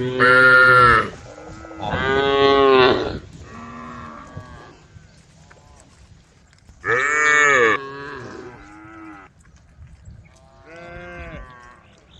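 Cattle mooing repeatedly: about six drawn-out calls of roughly a second each, some loud and some fainter.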